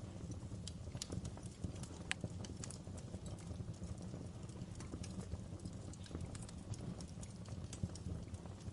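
Wood fire in a fireplace crackling, with irregular pops over a steady low rumble of the flames; one sharper pop about two seconds in.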